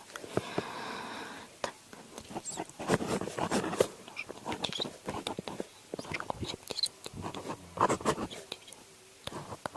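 Close-miked ASMR trigger sounds: a steady run of small crisp clicks and taps, with a few stretches of soft rustling hiss.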